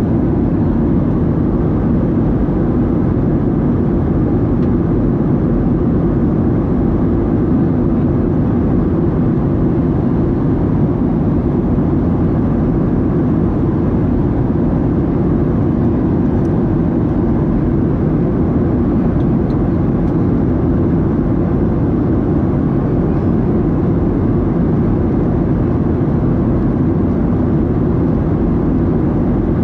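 Steady in-flight cabin noise of a Boeing 737-700, a constant low rumble of its CFM56-7B engines and the airflow over the fuselage, heard from a window seat behind the wing.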